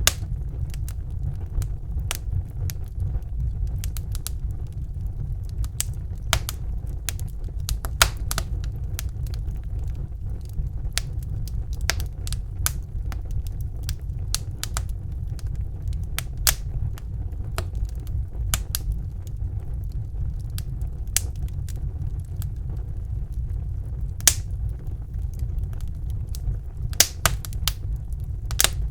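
Wood fire in a fireplace crackling, irregular sharp pops and snaps over a steady low rumble of the flames, with a few louder pops.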